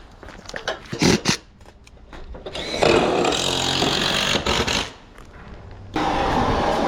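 Knocks and clatter of tools, then a handheld power tool runs for about two seconds on lumber. Near the end a steady noise cuts in abruptly.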